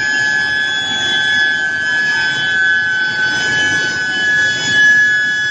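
Medium-frequency induction heating furnace running: a steady high-pitched whine with overtones, over general machinery noise.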